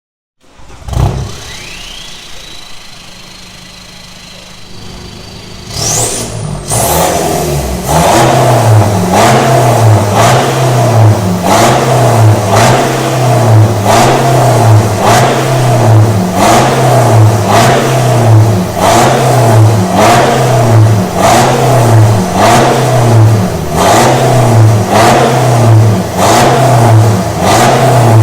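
A BMW F30 320d's four-cylinder diesel engine is started about six seconds in and then revved in repeated throttle blips, about one a second. It sounds through a new full stainless-steel exhaust with a custom downpipe.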